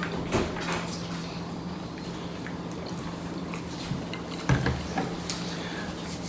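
Wet, sticky eating sounds from a sauce-covered seafood boil, with a few short clicks and smacks, mostly about a second in and again near the end. A faint steady low hum runs underneath.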